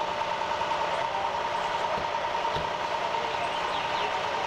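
Vehicle engine idling steadily, with a constant high hum over it and a couple of faint knocks about two seconds in.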